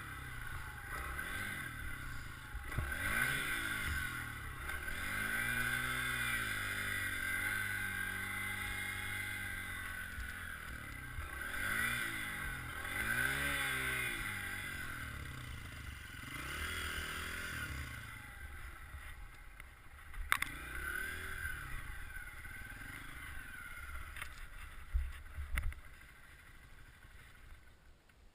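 Dirt bike engine revving hard over and over, its pitch rising and falling in repeated surges, then easing off and fading in the last few seconds.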